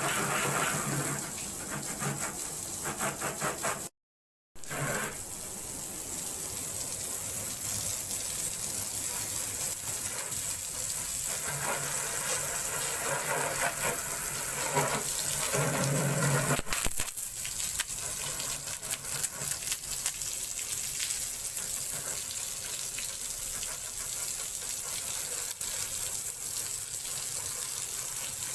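Water spraying from a homemade high-pressure car-washer nozzle, a steady gushing hiss. The sound cuts out completely for about half a second, about four seconds in.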